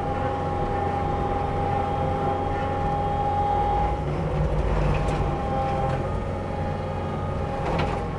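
Heavy machine's diesel engine running steadily under a forestry mulcher, with a steady high whine from the mulcher drive that fades about four seconds in and comes back more weakly.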